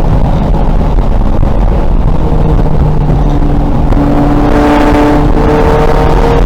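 A VW Golf race car's engine running hard under load, its pitch rising slowly through the second half as the revs climb.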